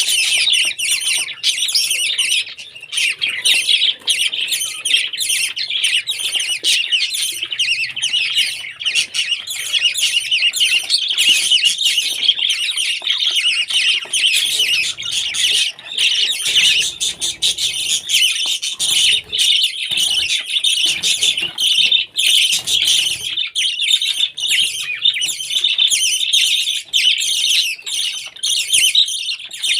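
Parrots chattering: a continuous stream of rapid, high chirping calls without pause.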